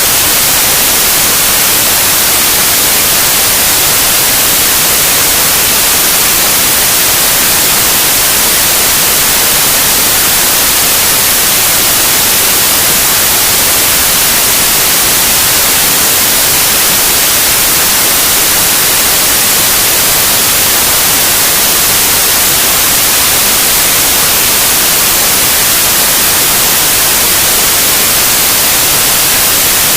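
Loud, steady white noise: an even hiss with its energy strongest in the high frequencies, unchanging throughout.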